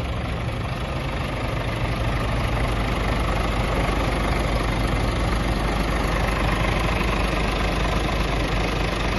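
2018 Scania R 450 truck's 13-litre straight-six diesel engine idling steadily, a little louder from about two seconds in.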